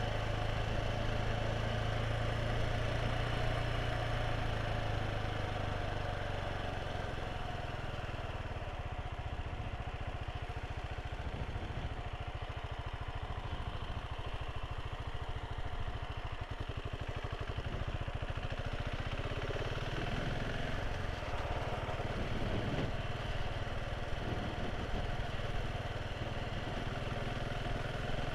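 Motorcycle engine running steadily while riding, with a broad rush of wind and road noise. Its low, steady hum drops away about six seconds in, and the engine note carries on changed after that.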